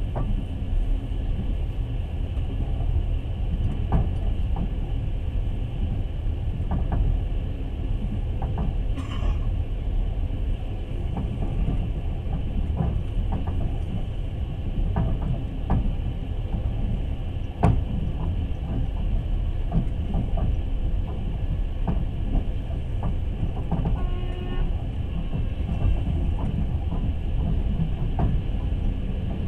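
Passenger train carriage running along the rails, heard from on board: a steady low rumble with scattered knocks and clicks of the wheels. A brief high-pitched tone sounds about nine seconds in, and another short tone near the end.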